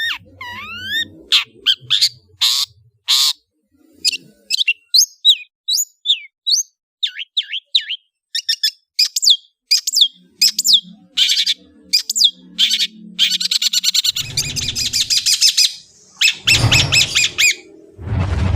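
Long-tailed shrike (cendet) singing: a fast run of short, sharp whistled notes and pitch sweeps, then long harsh rasping chatter in the last third.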